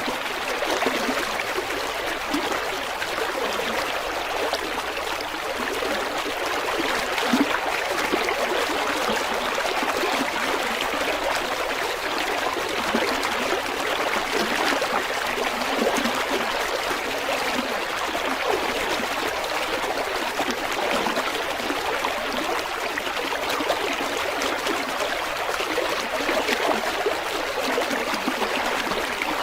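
A river's water flowing and babbling steadily over stones, a continuous splashing rush with little low rumble.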